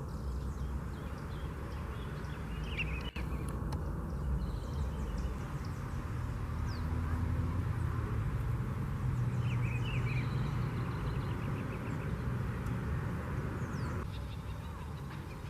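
Field recording of a few short bird chirps, clustered about 3 seconds in and again around 10 seconds in, over a steady low rumble from wind or distant traffic.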